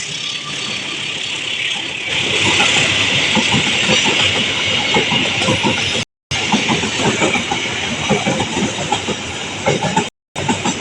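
KA Argo Bromo Anggrek express passenger train passing close by, its wheels clattering over the rail joints under a steady hissing rush. The sound cuts out completely for a moment about six seconds in and again near the end.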